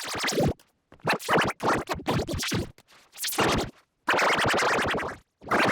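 A cartoon voice clip run through heavy editing effects, so the words are unrecognisable: choppy, stuttering fragments, then two longer held sounds in the second half.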